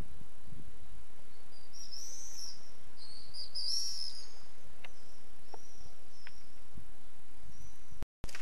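Open-air ambience with small birds chirping in short high bursts, clustered a couple of seconds in and again near the middle. The sound drops out for a moment just before the end.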